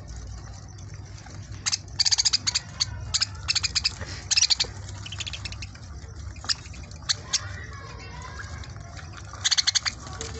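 A flock of budgerigars at their seed: several bursts of quick, sharp clicking chatter over a steady low rumble.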